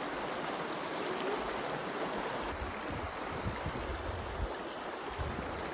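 River water rushing and splashing steadily over rocks. Irregular low thumps come in from about halfway through.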